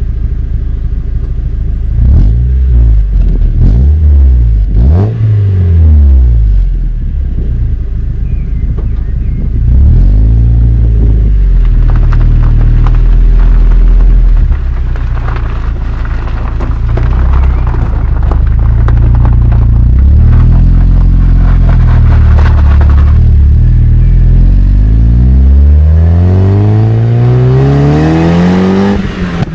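Mazda MX-5 NB 1.8 four-cylinder engine running through an M2 Motorsport aftermarket exhaust: a few quick rev blips in the first seconds, then held at steady revs, then climbing in one long rising pull near the end.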